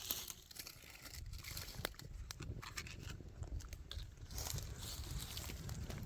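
Dry twigs and leaves crunching and snapping: an irregular string of sharp cracks and crackles, busier in the second half.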